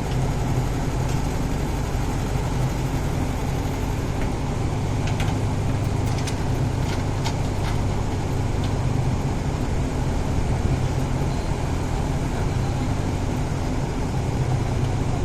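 Excavator's diesel engine running steadily with a low hum. A few short light clicks come about five to eight seconds in.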